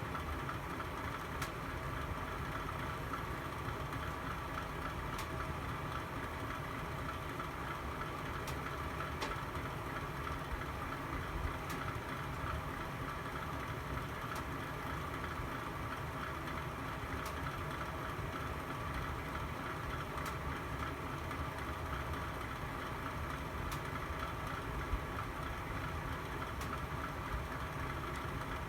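Fire burning in a fireplace: a steady low rush of flames with occasional faint crackles and pops every few seconds.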